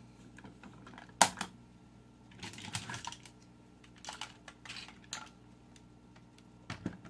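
Hard plastic parts of a DX Engine-Oh toy robot being handled: a sharp click about a second in, then scattered small clicks and clacks.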